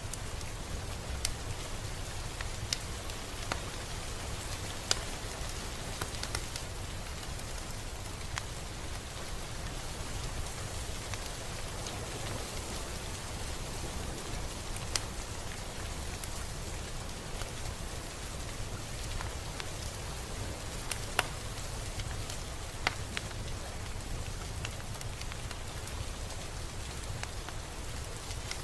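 Steady rain falling, with individual drops ticking sharply close by every second or so, a few louder than the rest, over a low steady rumble.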